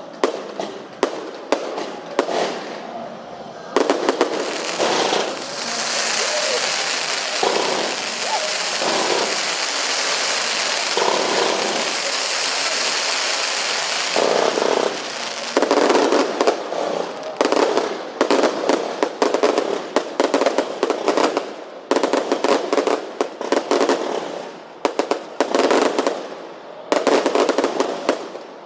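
Fireworks display: many sharp bangs going off, with a long steady hiss through the middle, then a dense run of rapid bangs.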